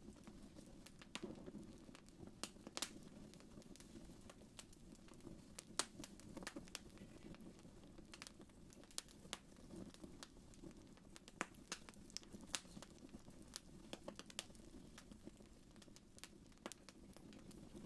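Wood fire crackling softly in a fireplace: irregular sharp pops and snaps, a few louder than the rest, over a steady low rumble.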